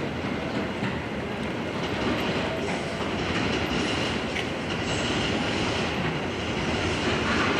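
C57 1 steam locomotive running on track during a test run after repairs to a damaged cylinder: a steady, noisy rail sound with a few faint knocks.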